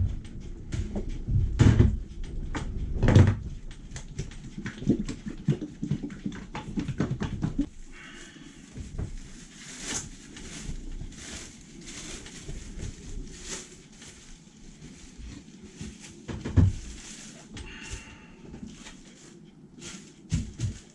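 Irregular knocks, clicks and clatter of objects being handled, dense for the first eight seconds, then quieter rustling and scraping with scattered clicks and one thud about two-thirds of the way through.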